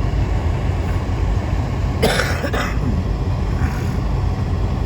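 Steady low rumble of a car driving, heard from inside the cabin, with one short cough about two seconds in.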